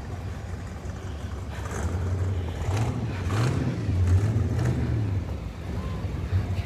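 Cars in a slow parade driving past, their engines running with a low drone that swells about two seconds in.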